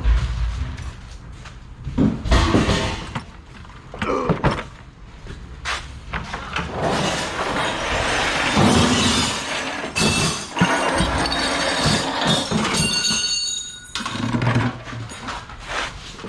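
Pieces of brass and copper scrap clanking and clattering as they are tossed and dropped together, with a brief metallic ringing tone near the end.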